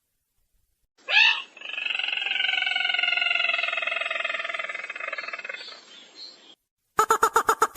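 Recorded crake call, sintar merah, played as a trapping lure. A loud note about a second in leads into a long, slightly falling trill lasting about five seconds, and a burst of about ten rapid staccato notes follows near the end.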